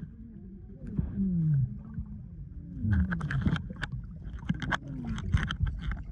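Water gurgling and splashing around an action camera held at or below the surface while swimming: a muffled low rumble with several short falling tones and many small clicks.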